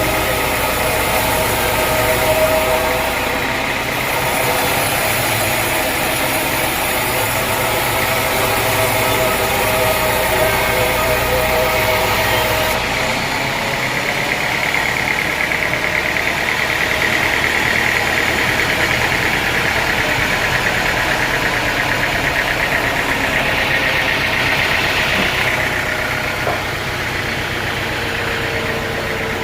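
Sawmill machinery running steadily with an engine-like drone. About halfway through the deep low hum drops away, and a higher whine then swells and fades out a few seconds before the end.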